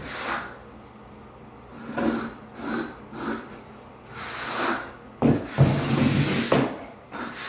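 A hand trowel scraping and smoothing dry-packed shower pan mortar, in a series of strokes of varying length.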